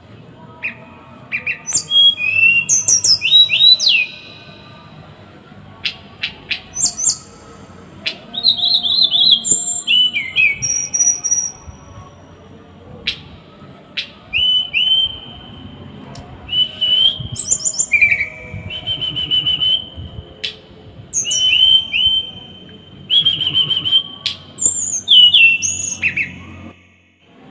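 Small songbird singing in bursts of rapid, harsh chattering phrases: sharp clicking ticks mixed with short whistled notes, with pauses of a second or two between bursts.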